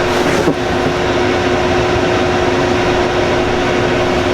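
Steady mechanical hum with one constant mid-pitched tone from the boat's air-conditioning unit. Its raw-water pump has not yet kicked on.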